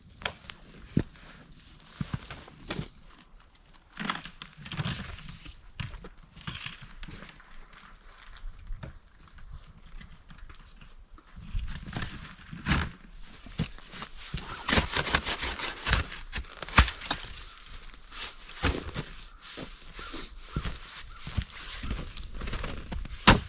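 Irregular crunches, knocks and rustling, like a person moving about in snow and handling gear. They grow louder and busier from about halfway through, with a sharp knock near the end.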